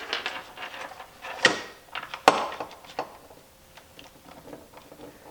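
Parts and a plug being handled on a workbench: a run of clattering and rattling, with two sharp knocks about a second and a half and two and a quarter seconds in, then lighter scattered ticks.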